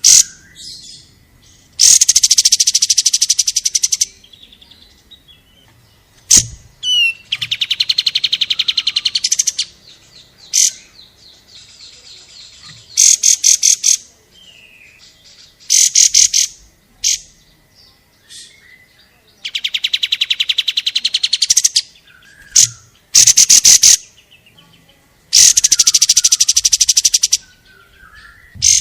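Konin songbird singing a masteran training song: loud, high-pitched phrases of very fast repeated notes, each lasting about one to two seconds, repeated about ten times with short pauses between them.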